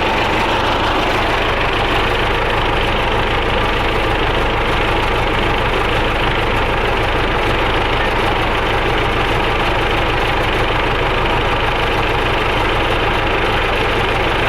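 An engine idling steadily, without a change in speed.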